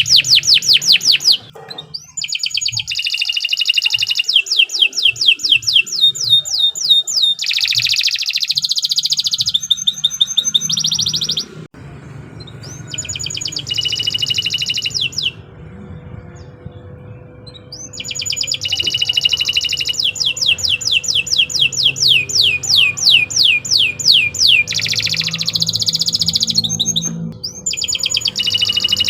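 Domestic canary singing long, vigorous phrases of rapidly repeated sweeping notes, many to the second, changing from one trill to the next. The song breaks off briefly about twelve seconds in and again a few seconds later before resuming, over a faint low hum.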